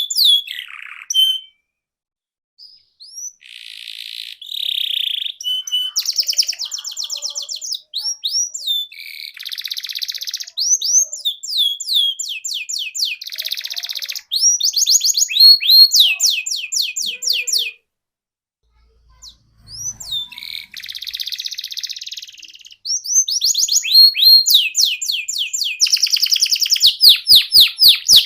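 Canary singing: one phrase after another of fast repeated notes and rolling trills, the tune changing every second or two, with short breaks about two seconds in and about eighteen seconds in.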